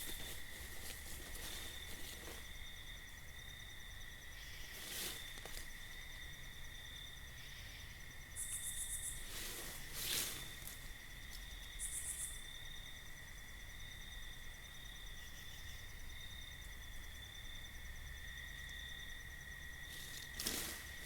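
Night insect chorus: crickets trilling steadily in a high, even drone, with two short higher buzzes a few seconds apart. A few brief rustles or clicks come through, the most distinct about halfway.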